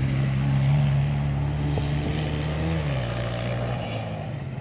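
Motocross motorcycle engine running at a steady pitch, stepping down in pitch about three seconds in and growing fainter.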